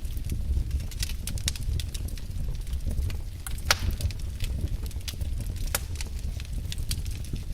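Wood fire in a fireplace crackling, with irregular sharp pops over a low steady rumble of the flames; one louder pop near the middle.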